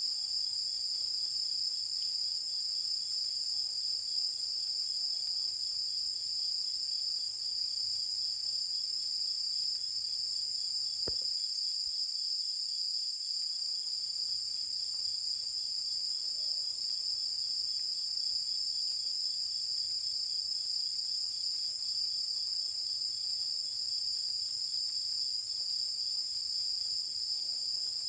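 Night chorus of insects: several steady high trills layered together, with a fainter pulsing chirp beneath them. A single faint click about eleven seconds in.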